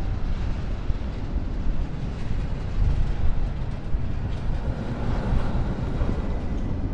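The Big One's steel roller coaster train running along its track in a continuous rumble and clatter that grows louder about five seconds in. Wind buffets the microphone throughout.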